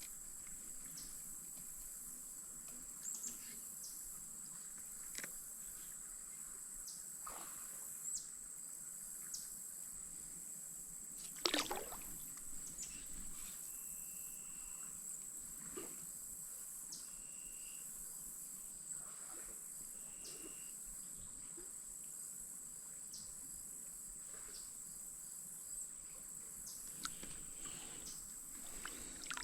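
Steady high-pitched drone of insects, with scattered light clicks and knocks. The loudest knock comes about eleven and a half seconds in.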